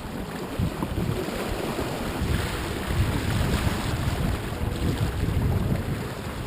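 Wind buffeting the microphone in gusts over a steady rush of water along a small sailboat's hull while under sail in strong wind.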